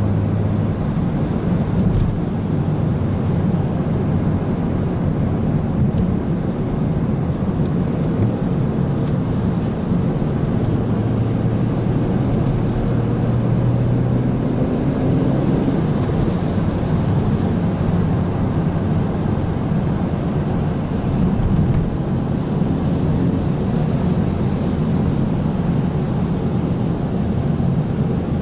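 BMW 335i's N55 turbocharged 3.0-litre straight-six running at a steady cruise, with a steady low engine drone and road noise and only slight changes in pitch.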